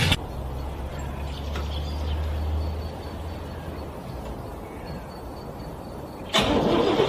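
Car engine being cranked by its starter in extreme cold without starting. A burst of cranking cuts off at the start, a low steady rumble follows for a few seconds, and loud cranking starts again near the end.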